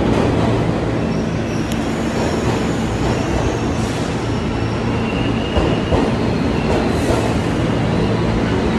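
Passenger train running on the rails: a steady rumble with faint high-pitched wheel squeals, and a couple of clanks about six seconds in.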